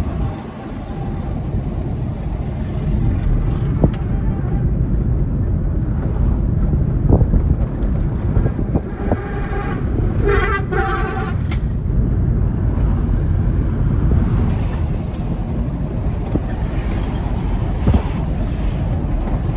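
Truck running on the road, a steady low engine and road rumble. A vehicle horn sounds for about two seconds near the middle.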